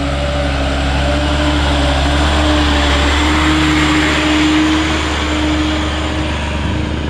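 Heavy truck's diesel engine running loud and steady under load, its pitch rising slightly and swelling about two-thirds of the way through, then easing back.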